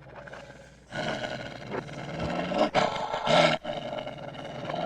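A canine growling, deep and threatening: a warning growl that swells up about a second in and runs on with a couple of brief breaks.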